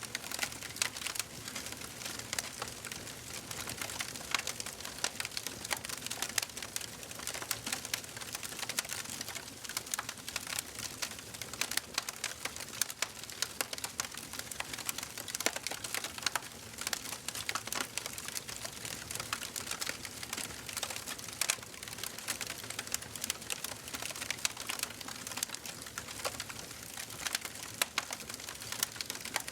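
Wood fire crackling in a fireplace: a dense, irregular stream of small sharp pops and snaps over a soft steady hiss of burning.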